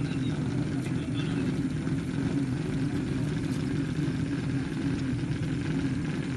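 An engine running steadily at a constant pitch, with no revving.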